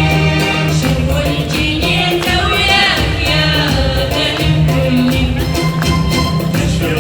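Live group singing in chorus over percussion keeping a steady beat, with instruments below.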